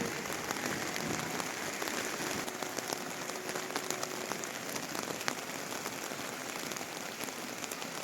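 Steady rain falling, with many individual drops clicking close by.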